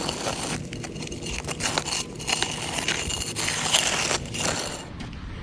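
Irregular gritty scraping and crunching, in uneven strokes with short pauses, typical of a tool being worked over dry concrete mix to fix the slab edges.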